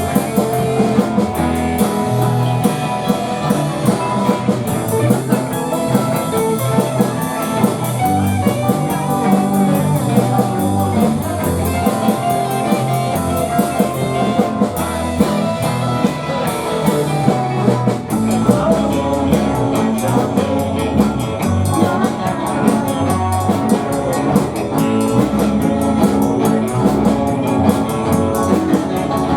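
A live rock band playing an instrumental number on electric guitars, bass and drum kit. The music dips briefly about eighteen seconds in, and the playing changes after it.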